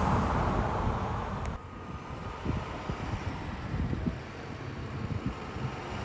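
Wind buffeting the microphone over a steady machine rumble, with an abrupt drop in level about a second and a half in and uneven gusts after it.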